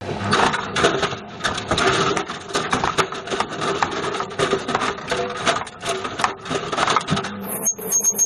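Bush VCR807 video recorder tumbling in a washing machine drum: loud, rapid, irregular clattering and banging of its casing against the drum. Near the end the clatter stops abruptly and a high-pitched steady tone with fast pulsing takes over.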